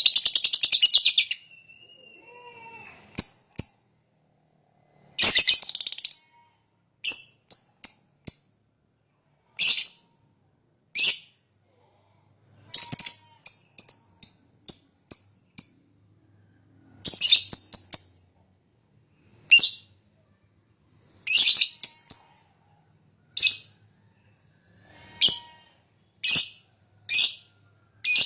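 Lovebird calling: a rapid, high chattering trill in the first second, then a long irregular series of short, sharp, high-pitched chirps, single or in quick pairs, with short silences between them.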